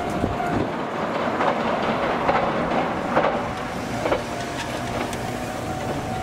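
JR Shikoku 2600 series diesel railcar running away across a steel railway bridge: wheels clacking over rail joints about once a second under a steady running noise, slowly fading as it recedes.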